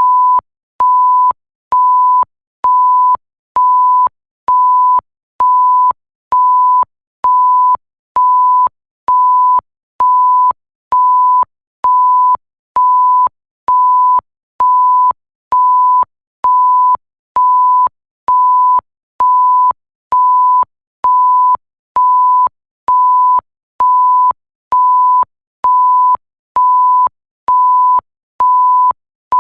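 Electronic 1 kHz bleep tone repeating about once a second, each beep about half a second long, with a faint click as it switches on and off.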